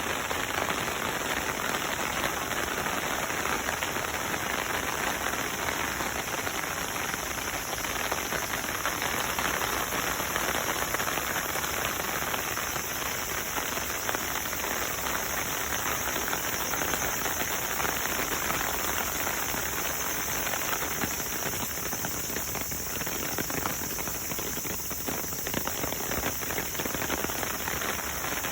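Steady water noise with no break.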